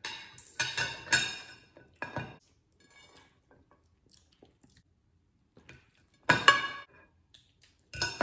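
Cutlery and lobster shell knocking and clinking against ceramic plates in a few short clattering bursts. There is a cluster in the first second or so and one about two seconds in, then a quiet stretch, a loud clatter about six seconds in and another near the end.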